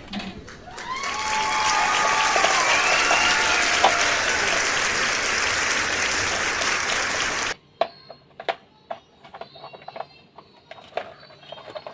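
Applause and cheering crowd, lasting about six seconds and cutting off suddenly, followed by a few light clicks of parts being handled.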